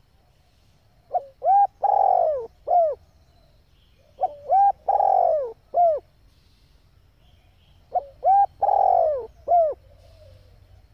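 Female spotted dove cooing: three phrases about three seconds apart, each made of a couple of short coos, one long, loud coo and a last short coo.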